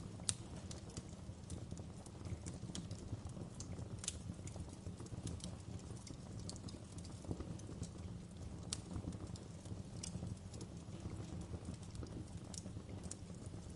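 Wood fire burning in a fireplace, crackling: irregular sharp snaps and pops, several a second, over a steady low rumble. The loudest snap comes just after the start.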